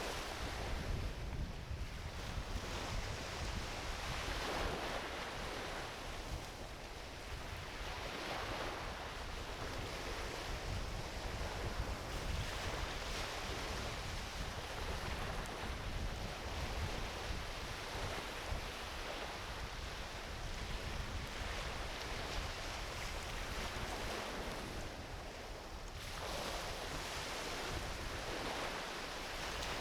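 Ocean waves washing onto a beach, swelling and easing every few seconds, with a low rumble of wind on the microphone.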